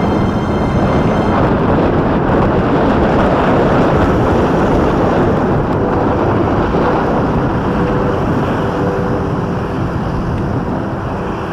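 Wind rushing over the microphone of a moving motorcycle, with road and traffic noise beneath; a faint steady hum comes in about halfway through.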